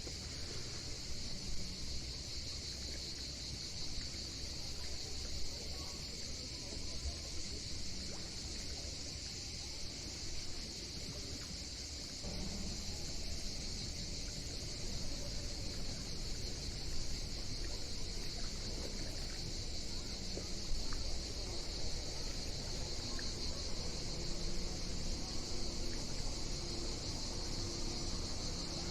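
Steady high-pitched insect chorus over a constant low rumble.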